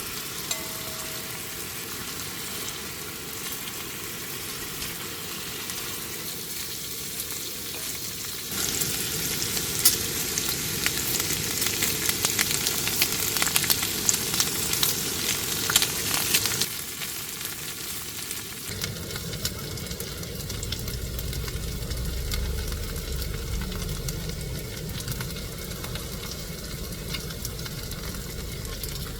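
Food sizzling and crackling as it fries in a pan, growing louder with dense crackles for several seconds in the middle, then settling back. A low rumble comes in about two-thirds of the way through.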